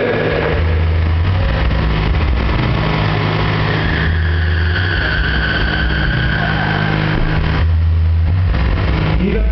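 Heavy bass from a competition car-audio system's subwoofers in a van, played at very high level for an SPL bass-race run. It comes as deep, steady low notes, with three heavier held bass notes about half a second, four seconds and near eight seconds in.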